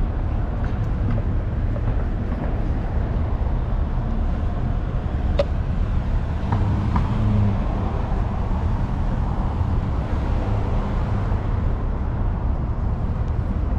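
City street ambience: a steady low rumble of road traffic, with one sharp click about five seconds in.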